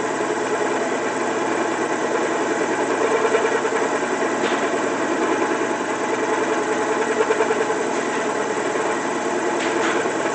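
Drill press running steadily: an even motor-and-spindle hum with a rough, fluttering texture and a couple of faint clicks.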